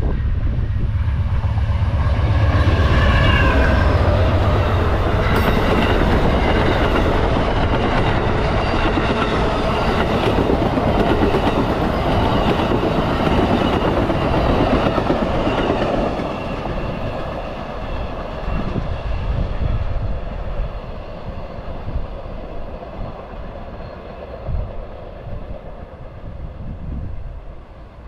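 An Amtrak passenger train rolling by, its wheels clicking over the rail joints. It is loud for the first half, then fades as the train draws away after about sixteen seconds.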